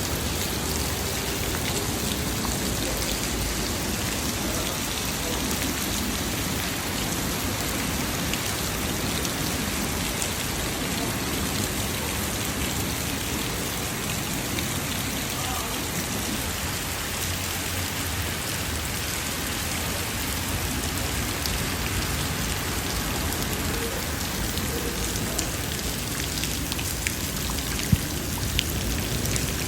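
Heavy rain falling steadily, a dense even hiss of drops on surfaces, with a few sharp drip-like taps near the end.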